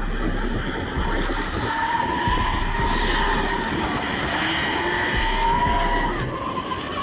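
Drift car engine held at high revs, with a drawn-out pitch that wavers slowly up and down, mixed with tyre noise from the slide.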